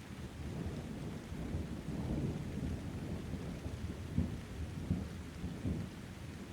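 Thunder rumbling over steady rain. The rumble swells about two seconds in, with three louder cracks around the fourth to sixth second, then eases off near the end.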